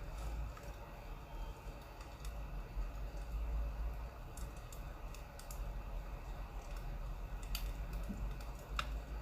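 Burning firewood crackling: a few scattered small pops and snaps over a steady low rumble.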